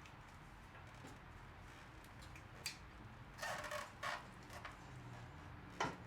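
A sharp click, then a short scraping rattle of about a second in the middle, and another click near the end: small parts being handled during work on a motorcycle engine fitting.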